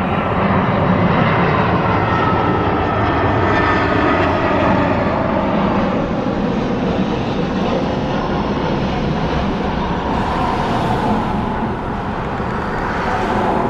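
Airbus A320 jet engines at approach power on final approach: a steady jet rumble with a thin whine laid over it.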